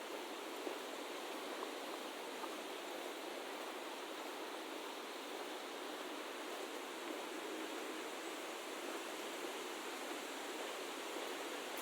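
Steady, even rushing noise with no pitch or rhythm, unchanging throughout, with almost no low rumble.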